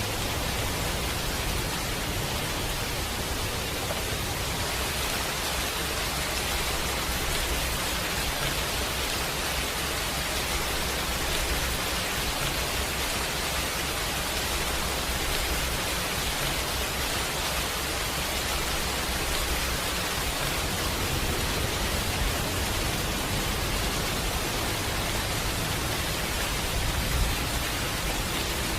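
Steady rain falling, an even hiss with a low rumble underneath and one slightly louder tick near the end.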